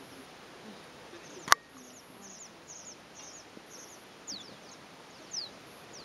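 Small bird calling: a rapid run of short, high, down-slurred chirps, then two longer high notes falling in pitch. A single sharp click about a second and a half in is the loudest sound.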